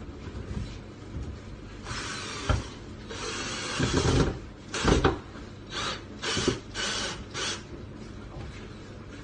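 Hand repair work on wood: scraping, rasping strokes with a couple of sharp knocks. Near the end come four short strokes in a quick rhythm.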